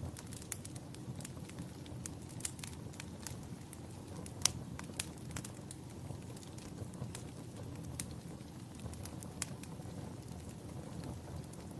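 Wood fire crackling in a fireplace: irregular sharp pops and snaps, the loudest about four and a half seconds in, over a steady low rumble.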